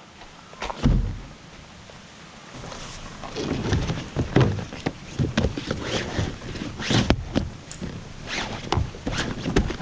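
Gear being handled around kayaks: irregular knocks, clunks and rattles, with one thump about a second in and a busy run of knocks from about three seconds in.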